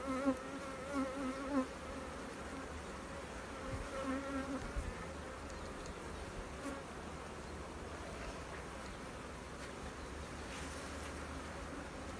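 Honeybees buzzing around an opened hive during a frame-by-frame inspection. Single bees fly close past with a wavering buzz, loudest in the first second and a half and again around four seconds in. The beekeeper calls this colony aggressive.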